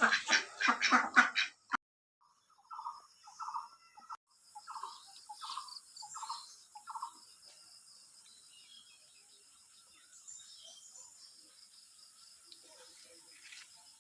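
A bird calling: a series of about eight short, evenly spaced notes over some four seconds. A faint, steady high hiss follows.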